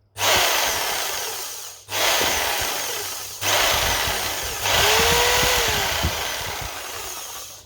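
Fieldmann FDP 200712-E 710 W corded jigsaw running free with no workpiece, its blade sawing the air. The trigger is pulled in four runs, the last and longest running about 3 s and stopping near the end.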